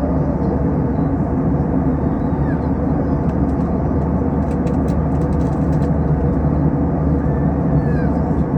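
Steady cabin noise of an Airbus A321 airliner in flight: an even, unchanging low rumble of engines and airflow.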